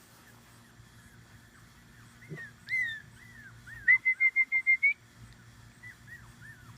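Tibetan Terrier puppies about five weeks old whining in short, high-pitched falling whimpers, with a quick run of about seven squeaky yips in the middle.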